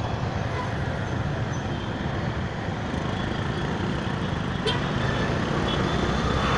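Road traffic noise: vehicle engines and tyres running steadily, with one short click about four and a half seconds in.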